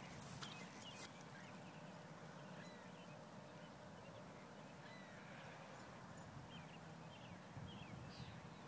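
Near silence: faint outdoor hiss with a few short, faint bird chirps scattered through, several of them close together near the end. A couple of faint taps in the first second.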